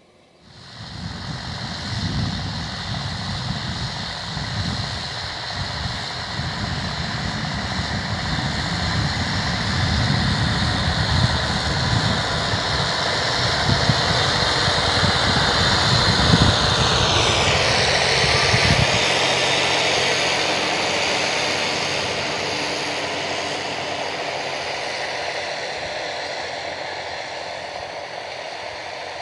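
Massey Ferguson 266 G tractor's diesel engine running as the tractor drives past: it grows louder, passes with a falling pitch about 17 seconds in, then fades as it moves away.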